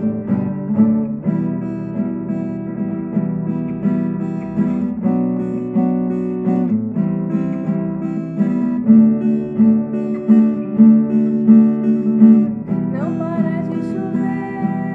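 Acoustic guitar strummed in a steady rhythm, playing a song's introduction; a singing voice comes in near the end.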